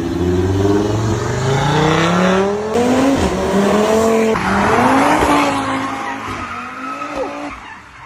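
Audi RS3's turbocharged five-cylinder engine accelerating hard, its note climbing in pitch and breaking twice as it shifts up. In the second half the note sweeps down and fades away.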